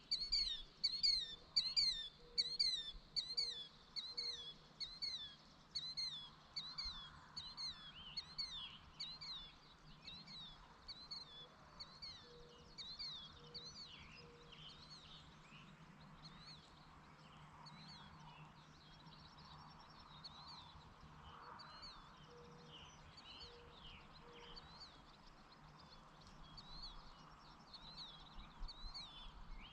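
A bird calling over and over, about two sharp, falling high notes a second, close and loud for the first several seconds. After that come fainter, scattered calls from other birds.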